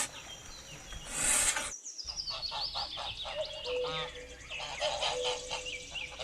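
Goslings peeping: many short, high chirps that slide in pitch, after a brief rustling burst about a second in.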